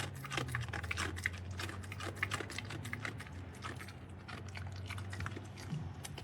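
Dogs chewing and crunching on food they have been offered: a rapid, irregular run of crisp clicks and crunches over a low steady hum.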